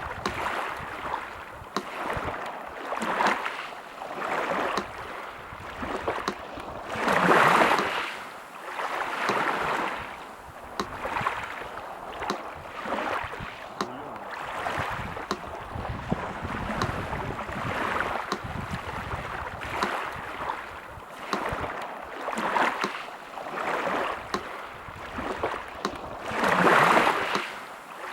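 Sea surf washing on the shore, a steady noise that swells and fades every second or two, with two bigger waves standing out. Faint, evenly spaced metronome ticks run through it.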